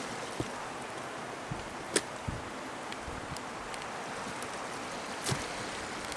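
Heavy rain falling steadily, a continuous hiss, with a few scattered sharp taps, the strongest about two seconds in and just after five seconds.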